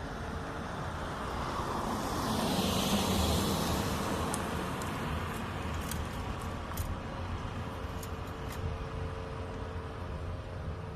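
Mercedes-Benz Sprinter van's engine idling steadily after a fresh oil change while the oil circulates, with a vehicle passing by about two to four seconds in and a few light clicks afterwards.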